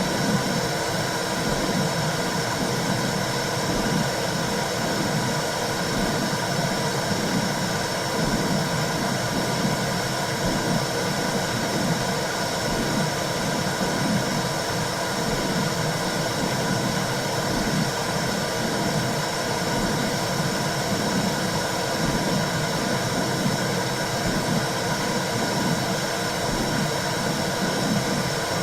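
Womb-sound recording for calming a baby: a steady rushing noise with a low, regular pulsing beneath it.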